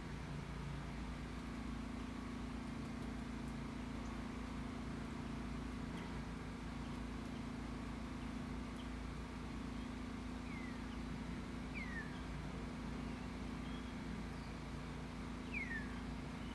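Steady low background rumble, with three short calls from a small bird sliding downward in pitch in the second half. The last call is the loudest.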